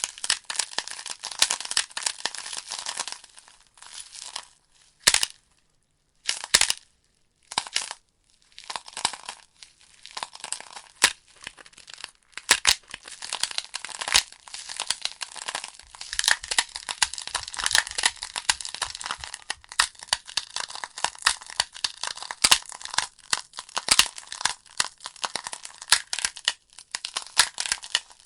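Burning logs crackling in a fireplace, with dense, irregular snaps and pops. There are two short near-silent gaps between about five and eight seconds in.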